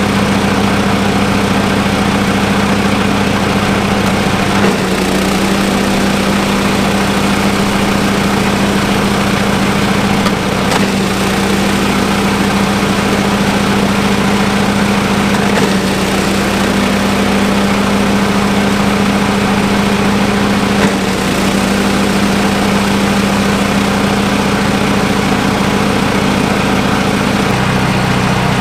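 Yardbeast 2090 chipper-shredder's small petrol engine running steadily at a constant speed, a loud even drone with a few faint brief knocks.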